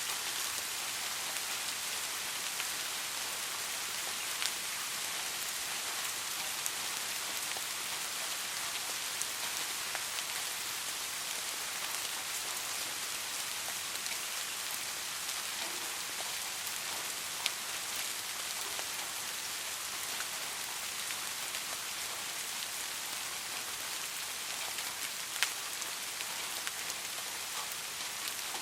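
Steady soft rain falling in a forest, an even hiss with the ticks of individual drops landing close by now and then.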